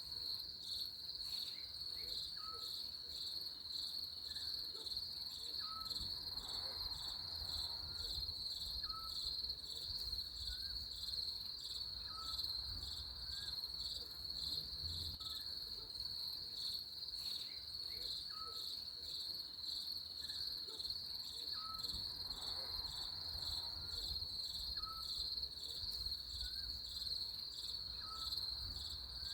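Crickets chirping in a steady, high, pulsing chorus, with a faint short chirp repeating about every second and a half beneath it.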